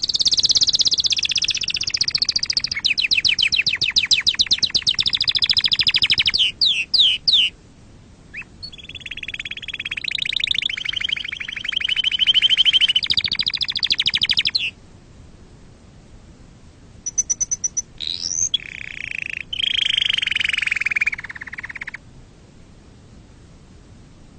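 Domestic canary singing: rapid rolling trills and warbled phrases in several bursts separated by short pauses, high-pitched and loud.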